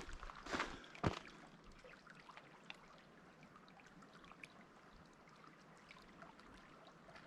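Two footsteps in the first second or so, then faint water lapping and trickling at a lake's edge, with small scattered ticks.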